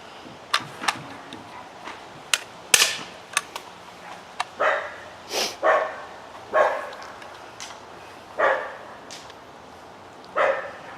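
A dog barking, about five short barks spread through the second half, with several sharp clicks before them.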